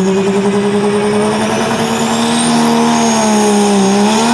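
Ford pulling truck's Cummins diesel engine running wide open under load as it drags the sled, its pitch climbing steadily, dipping briefly near the end and picking up again. A thin, high whine rises above it over the first few seconds.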